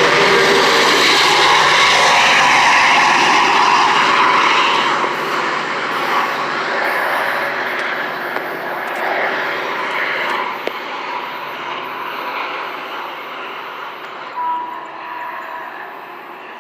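Caltrain passenger train going by with a loud steady rushing roar that eases after about four seconds and then slowly fades as it moves away.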